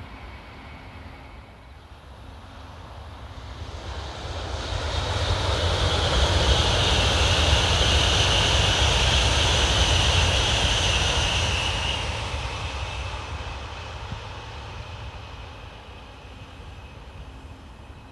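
N700A Shinkansen bullet train passing at high speed. A rushing noise with a low rumble builds over a few seconds, holds at its loudest with a high hiss for about six seconds, then fades away.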